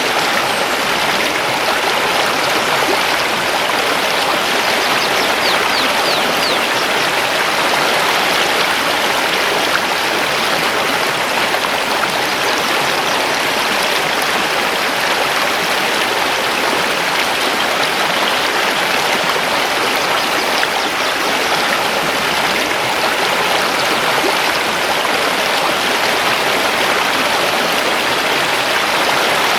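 Mountain river flowing among stones: a steady, unbroken rush of water.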